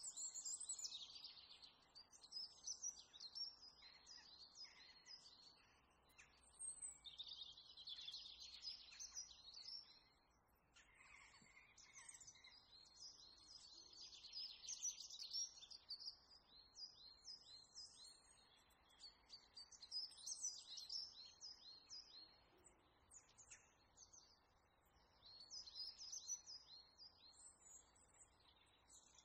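Faint birdsong: small birds chirping in quick runs of high notes, the runs coming and going every few seconds over a quiet hiss.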